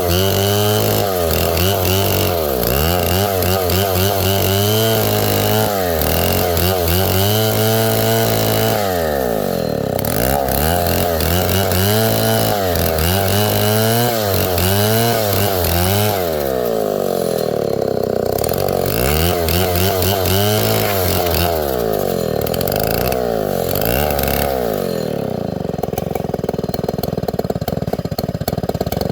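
Stihl 070 two-stroke chainsaw running, its engine pitch rising and falling again and again as it is throttled up and down.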